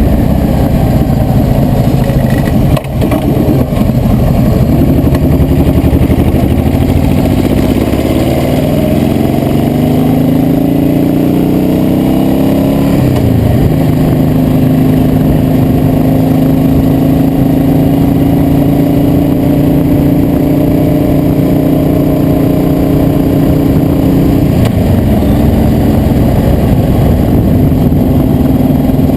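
Motorcycle engine under way: its pitch climbs steadily as it accelerates, drops sharply just before halfway at a gear change or throttle lift, then holds a steady cruising note with a brief dip later on.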